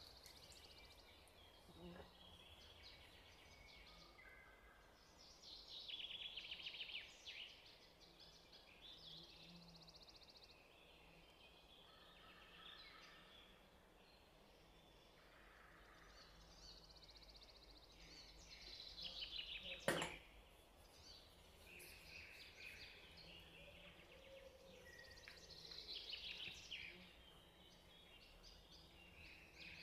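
Faint birds chirping and trilling on and off over a low background hiss, with one sharp click about two-thirds of the way through.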